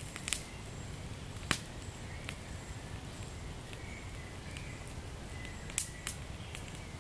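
Wood fire crackling in a fireplace: a steady low rumble with scattered sharp pops, the loudest about a second and a half in and again near six seconds in.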